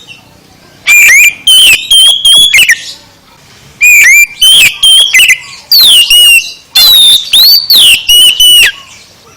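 Oriental magpie-robin (kacer) singing at full volume: loud, clear whistled phrases with sliding and warbling pitches, in two bouts with a short pause about three seconds in.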